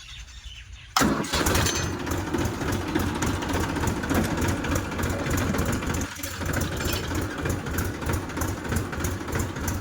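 Tractor diesel engine running with an even, rapid firing beat, coming in suddenly and loud about a second in.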